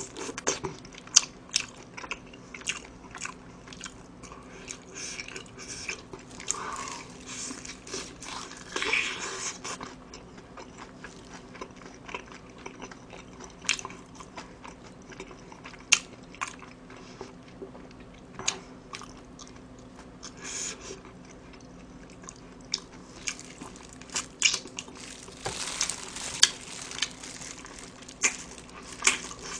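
Close-miked biting and chewing of a crispy BHC Curry Queen fried chicken drumstick: irregular crunches of the fried coating between quieter stretches of chewing.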